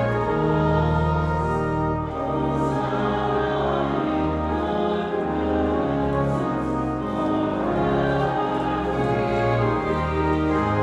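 Hymn sung by massed voices with instrumental accompaniment, moving in long held chords with strong sustained bass notes.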